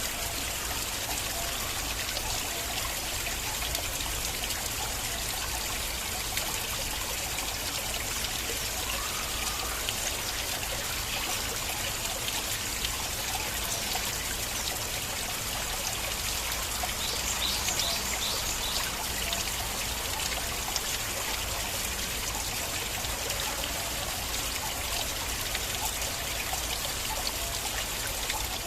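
Small stream of water flowing and trickling steadily, a continuous splashing rush.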